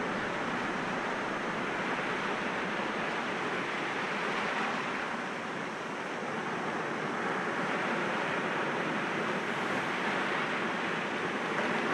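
Sea waves breaking against rocks, a continuous wash of surf that eases slightly about halfway through and then swells again.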